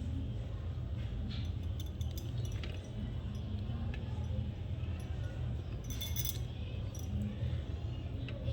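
Eating sounds at a meal: light clicks and clinks of hands and food against a plate, scattered, with a denser burst about six seconds in, over a steady low hum.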